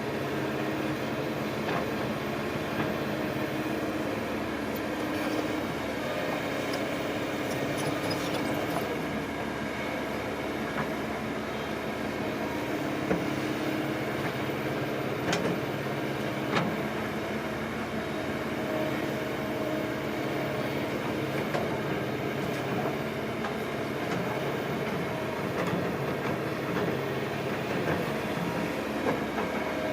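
Diesel engine of a heavy earthmoving machine running steadily, with a few sharp knocks midway through.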